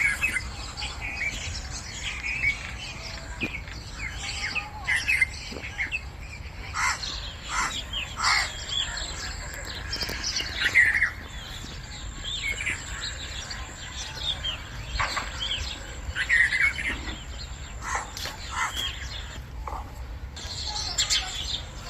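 Several songbirds chirping and calling in a forest, short scattered chirps overlapping one another, over a steady low background rumble.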